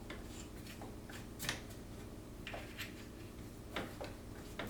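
A few scattered clicks and knocks from handling the Festool HKC 55 track saw as it is set to full cutting depth, the loudest about a second and a half in, over a low steady hum.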